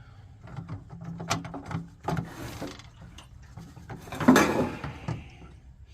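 Handling knocks and scraping as the heater is worked on, with the loudest scrape about four seconds in.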